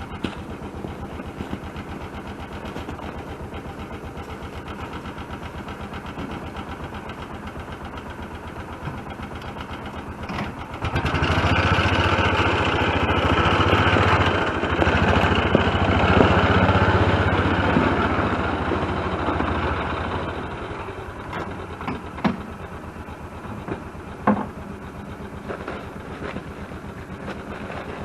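Utility vehicle's engine idling steadily, then running louder for about nine seconds in the middle before settling back to idle. A few sharp knocks come near the end.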